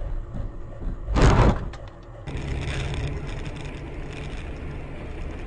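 Steady vehicle and road noise with a loud noisy burst lasting about half a second, about a second in, followed by a couple of short clicks. The background noise changes abruptly a little after two seconds.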